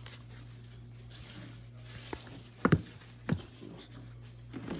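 Trading cards and their packaging being handled on a table: light scratchy handling noise with two sharp knocks about two and a half and three seconds in, over a steady low electrical hum.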